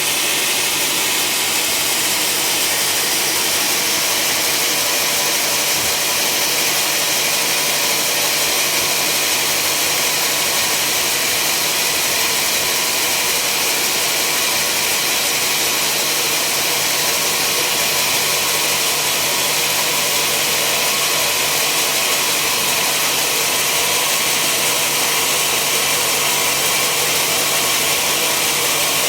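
Sawmill machinery running steadily: a constant low hum under an even, high hiss.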